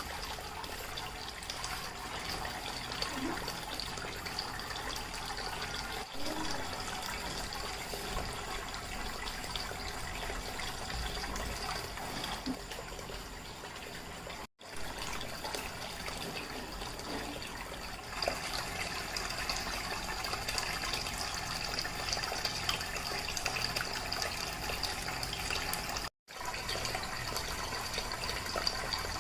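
Water from a homemade waterfall fountain splashing and trickling steadily, cutting out for a moment twice and a little louder in the second half.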